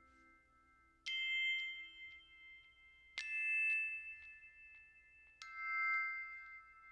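Chime-like bell notes from a light show's music soundtrack: three separate strikes about two seconds apart, each ringing on and slowly fading, as the lower tones of the preceding music die away.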